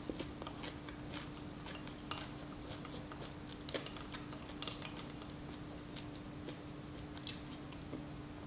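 Soft chewing of tteokbokki, with scattered light clicks of metal chopsticks against a glass bowl, over a steady low hum.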